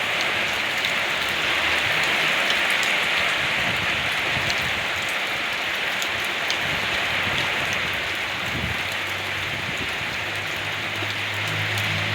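Steady rain falling and pattering on surfaces, with fine drop ticks throughout. A low steady hum joins in about three-quarters of the way through.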